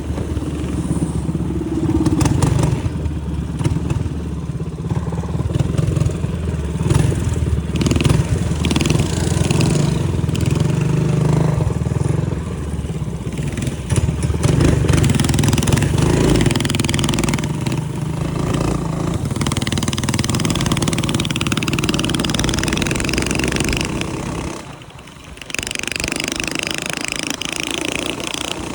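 Small minibike engine running and revving under riding, its pitch rising and falling. The sound dips sharply for about a second near the end, then carries on.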